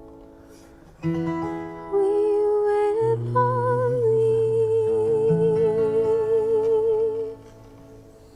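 Acoustic guitar chords under a long sung or hummed closing note held with vibrato, ending the song; the music stops about seven seconds in, leaving only a quiet ring-out.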